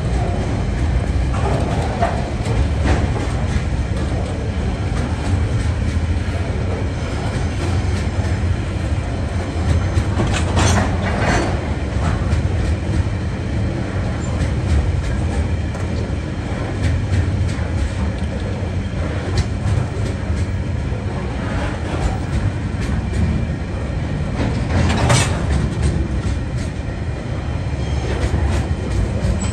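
Container wagons of a TasRail freight train rolling past: a steady rumble of steel wheels on rail with clickety-clack over the rail joints. A few brief, sharp metallic sounds stand out about ten seconds in and again near the end.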